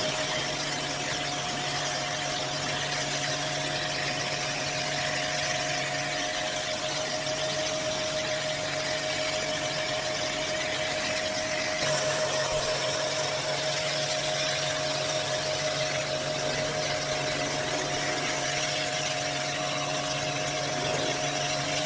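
A machine running steadily: a constant whine over a low hum and a broad hiss, with a slight change in its note about twelve seconds in.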